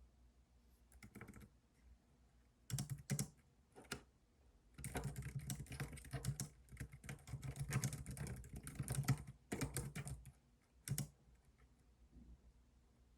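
Computer keyboard typing in bursts: a few keystrokes early, then a long run of fast typing from about five to ten seconds in, and a last few keys near eleven seconds.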